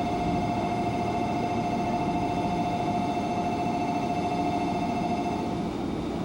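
Electric commuter train at a station platform: a steady rumbling noise with a held, even high tone over it that stops about five and a half seconds in.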